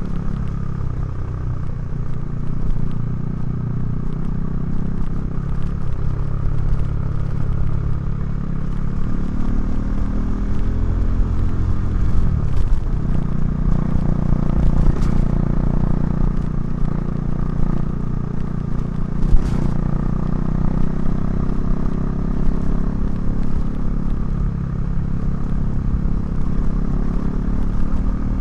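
KTM 390 Duke's single-cylinder engine running under way through a Remus exhaust, its pitch rising and falling with the throttle. The pitch drops sharply about twelve seconds in, as at a gear change, and a couple of sharp knocks come through, the loudest about twenty seconds in.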